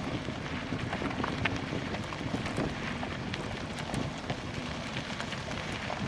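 Wind buffeting the microphone of a bicycle-mounted camera, with scattered light ticks and rattles from a bicycle rolling over rough trail.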